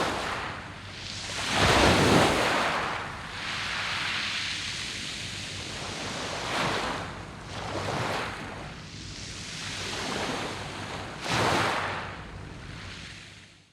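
Sea waves breaking on a beach of rounded pebbles (mongdol), several swells a few seconds apart with the rushing of water over the stones between them. The loudest swell comes about two seconds in.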